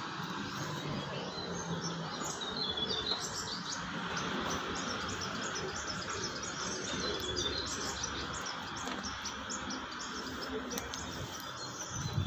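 Small birds chirping: many short, high calls overlapping, over steady background noise. A brief low bump right near the end.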